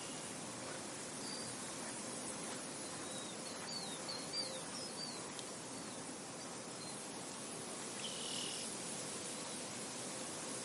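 Soft, steady wind across an open field, with birds chirping a quick run of short calls in the first half and one brief call about eight seconds in.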